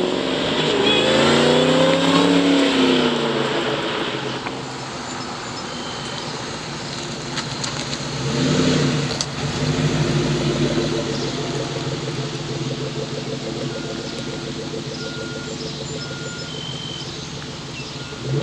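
2003 Ford Mustang SVT Cobra's supercharged 4.6-litre DOHC V8 running, its revs rising and falling in the first few seconds and again about halfway through, then holding steady.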